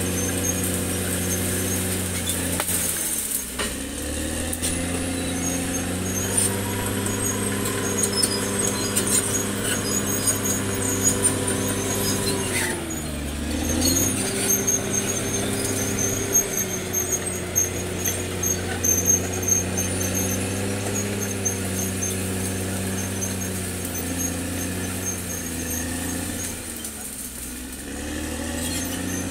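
Caterpillar D6R XL bulldozer's diesel engine running under load, its pitch sagging and recovering three times (a few seconds in, midway and near the end) as the engine is loaded and freed, with high squealing from the running gear throughout.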